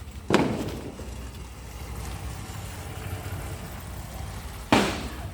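Steady low rumble of wind on the microphone, broken by two sudden loud thumps about four seconds apart, each fading quickly.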